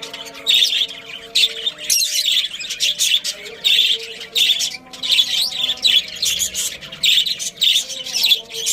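Many small birds chirping and chattering in quick, overlapping calls, with no pause.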